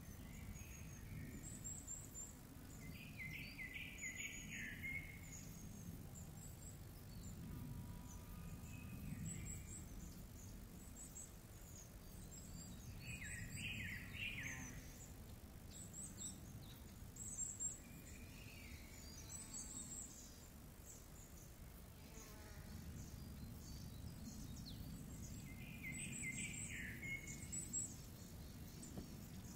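Faint bird calls at a nest: thin high chirps repeat all through, and short clusters of louder, falling calls come about three, thirteen and twenty-six seconds in. A low, steady outdoor rumble runs underneath.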